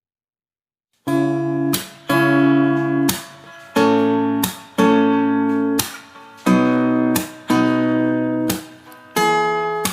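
Background music: after about a second of silence, an acoustic guitar strums chords, one struck roughly every second and left to ring down before the next.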